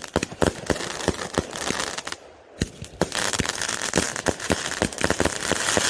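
Spinning ground firework going off: a steady hissing spray of sparks peppered with sharp, irregular crackling pops. It briefly falls quieter about two seconds in, then starts up again.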